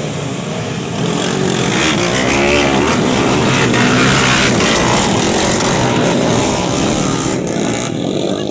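Motorcycle engine running and revving, its pitch rising and falling, louder from about a second in.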